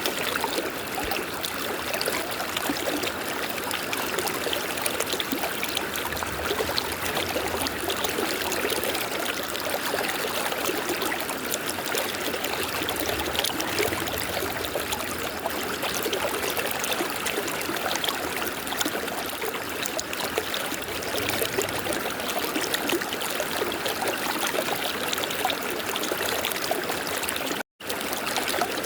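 River water flowing steadily, an even rushing and trickling that cuts out for an instant near the end.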